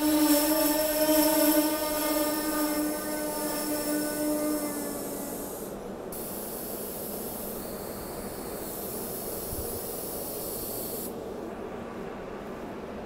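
SEPTA Regional Rail electric train at a platform: a steady, loud pitched hum that fades away over the first five seconds, then a hiss of air from about six to eleven seconds.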